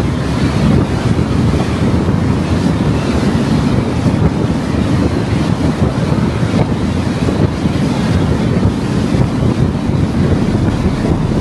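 Steady rushing wind noise on the microphone with a low rumble, from a car driving along the road.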